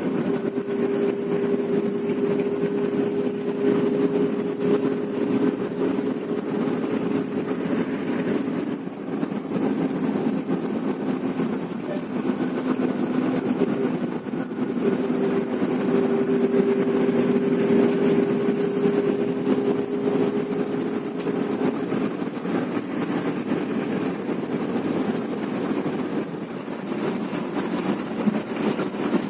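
Bus on the move: a steady engine drone over a hiss of road noise. The drone dips briefly about nine and fifteen seconds in and weakens near the end.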